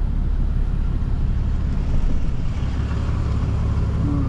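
Dodge pickup truck on the move, a steady low engine and road rumble heard from inside the cab.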